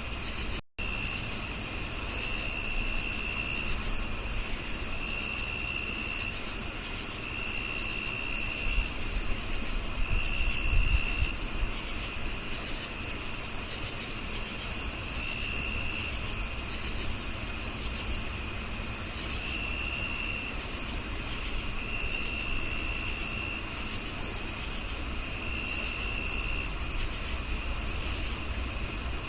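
Several crickets singing at once at different pitches: a steady high trill, short chirps repeating about three times a second, and separate trills about a second long starting and stopping at a lower pitch. The sound cuts out for an instant about a second in.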